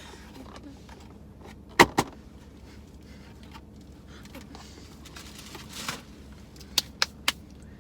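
Objects being handled on a table: two sharp clacks about two seconds in, a short rustle, then three quick clicks near the end.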